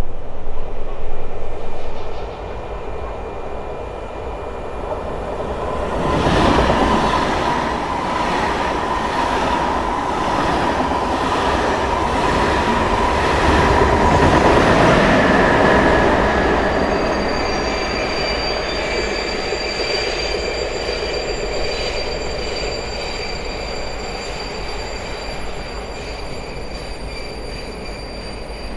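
A train moving through a station: a low rumble, then rising noise with a steady squealing whine and a rhythmic clatter of wheels over rail joints, loudest about halfway through. After that it eases off, leaving high steady squealing tones.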